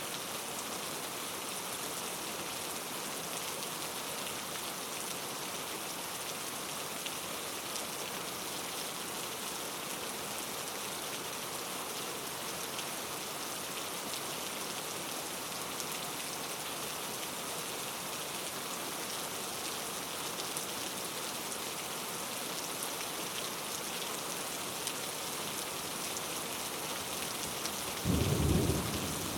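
Steady heavy rain falling, a continuous even hiss. Near the end, a brief low rumble of thunder cuts in for about a second.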